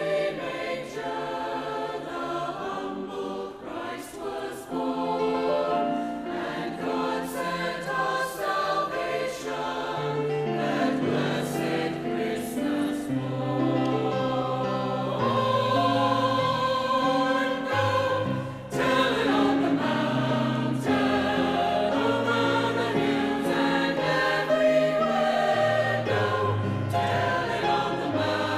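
A choir singing a holiday song, with deeper low notes growing stronger about a third of the way through.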